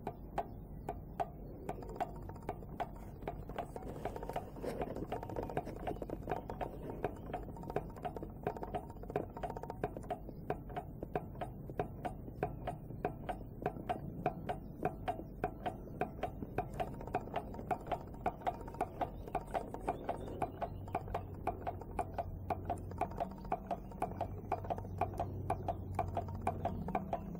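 Homemade Stirling hot-air engine, built from a converted air pump, running with a rapid, regular clicking of several clicks a second. Background music plays underneath.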